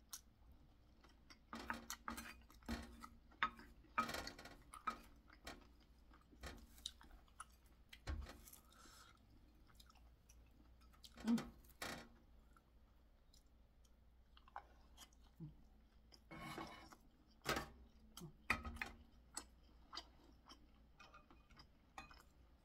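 Close-up chewing of chewy boneless chicken feet in spicy sauce, with irregular wet smacks and short clicks, one sharper click about eleven seconds in.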